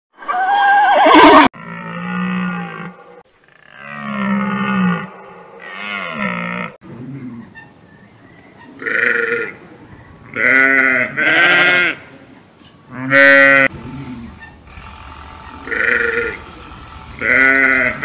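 A horse whinnying: a loud call falling in pitch, then three more calls over the next few seconds. From about 9 s, a lamb and sheep bleat in short, separate, wavering calls, about six in all.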